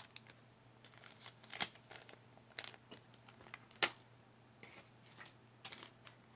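Quiet handling noise of small jewelry pieces being picked up and sorted: scattered sharp clicks, the loudest about four seconds in, with a little soft crinkling.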